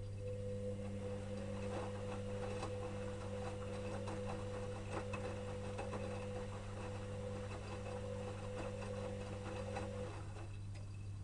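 Electrolux EWS 1045 washing machine's motor turning the drum during the wash: a steady whine with light clicks over a constant low hum, the whine stopping about ten seconds in as the drum pauses.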